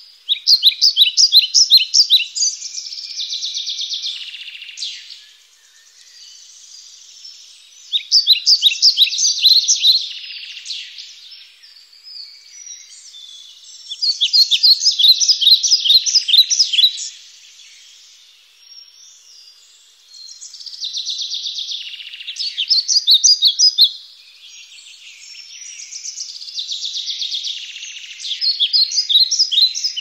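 Songbirds chirping: bursts of rapid, high-pitched repeated notes come every five or six seconds, with softer chirping in between.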